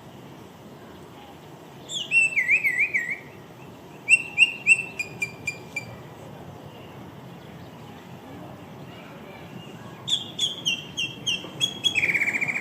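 A songbird singing three phrases of fast, clear whistled notes. Each phrase is a quick series of repeated notes that step down in pitch, the first opening with a rapid warble, and the last ending in a fast trill.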